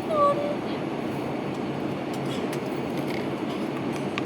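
Steady drone of an airliner cabin in flight, the even rush of engine and air noise. A short pitched sound rises briefly just after the start.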